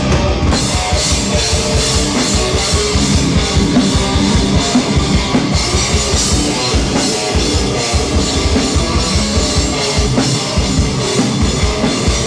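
Hardcore band playing live and loud: distorted guitars and bass over fast, dense drumming.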